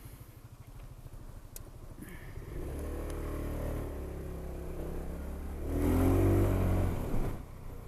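Honda SH 300i scooter's single-cylinder engine idling with a low, even pulse, then pulling away: it rises in pitch twice, loudest about six seconds in, before easing off near the end.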